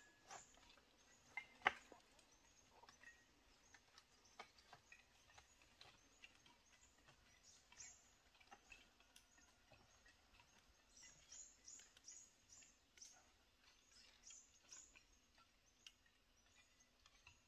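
Faint outdoor ambience of scattered high, short bird chirps, with a few sharp clicks or knocks, the loudest about a second and a half in.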